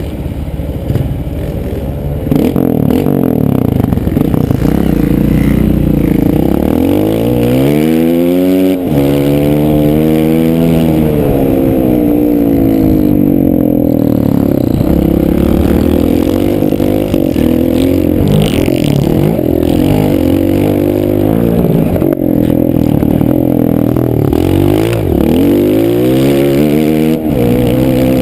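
Motocross bike engine revving hard as it is ridden, the pitch climbing and dropping again and again with throttle and gear changes, with a steep climb and sudden drop about eight to nine seconds in.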